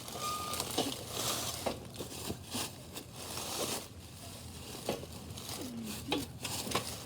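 Handling noise from the recording phone or camera being moved about: irregular rustling and crinkling with scattered small knocks and scrapes.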